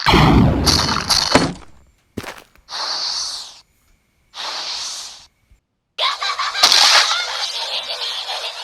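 Cartoon fight sound effects: a loud crashing impact with a deep boom at the start, two shorter noisy bursts a second or so apart, then a longer stretch of crashing, breaking noise with a sharp hit near the end.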